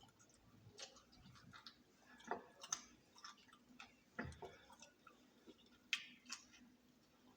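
Close-up eating sounds of a person chewing fried chicken: soft, scattered crunches and mouth clicks, with a few louder crunches about two, four and six seconds in.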